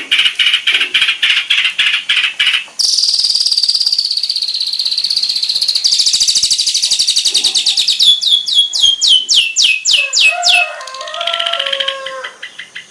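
Songbird singing in a varied, mimicking phrase, played as training song for long-tailed shrikes (cendet). It opens with rapid repeated notes, changes about three seconds in to a high, fast trill, and near the end gives a run of quick descending whistled sweeps before another chattering phrase.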